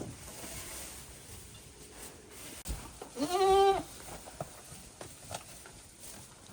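A goat bleats once, a single call of under a second, a little past three seconds in.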